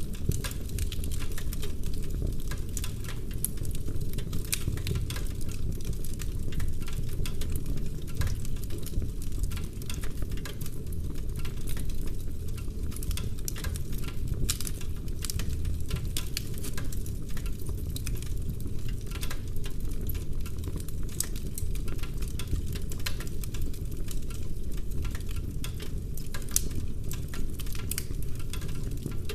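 Logs burning in a fireplace: a dense, irregular run of sharp crackles and small wood pops over a steady low rumble.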